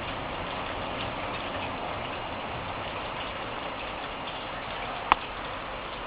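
Light rain falling, a steady patter with faint scattered drop ticks, and one sharp tick about five seconds in.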